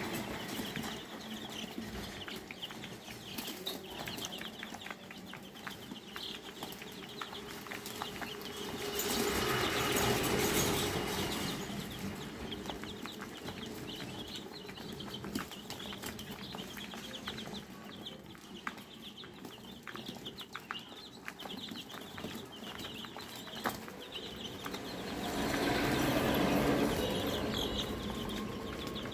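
A brood of nine-day-old Fayoumi chicks peeping continually in many short, high chirps. A broader rushing noise swells up twice, around ten seconds in and again near the end.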